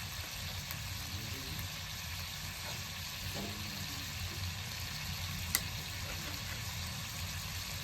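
Meat sizzling steadily as it cooks, a constant frying hiss, with one sharp click about five and a half seconds in.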